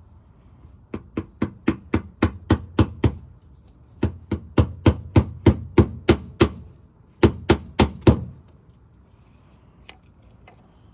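A hammer tapping the stem of a plastic push rivet to set it, in three runs of quick light taps about four a second, the last run short.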